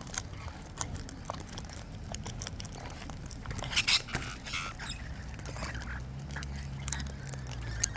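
Wild birds pecking and cracking seed, a scatter of small clicks and taps, with a short high call about four seconds in. A low steady hum comes in near the end.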